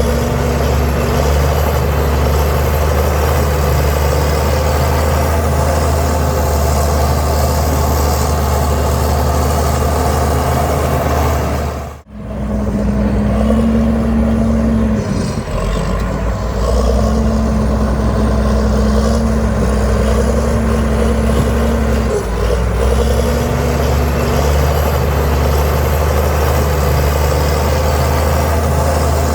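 Heavy diesel earthmoving machinery running steadily under work, with a brief break about twelve seconds in where the recording cuts.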